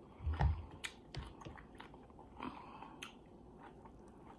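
Close-up chewing of food, with soft mouth clicks and smacks, loudest near the start with a low thump about half a second in, then fading to faint clicks.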